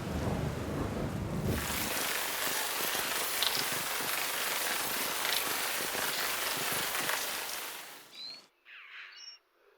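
Steady heavy rain, cutting off suddenly about eight seconds in, followed by a few short chirping animal calls.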